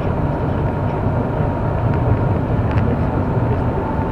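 Car driving, heard from inside the cabin: a steady low rumble of engine and tyre noise, with a faint steady whine above it.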